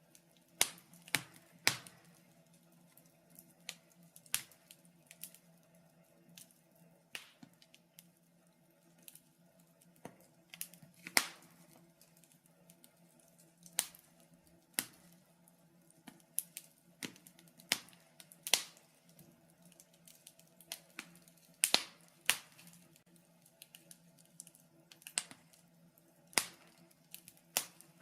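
Wood fire crackling in a fireplace: sharp, irregular pops and snaps, roughly one a second, some much louder than others, over a faint steady low hum.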